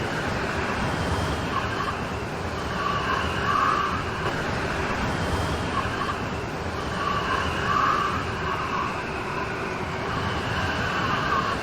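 Steady heavy rain storm, with a higher wavering tone that swells and fades every few seconds.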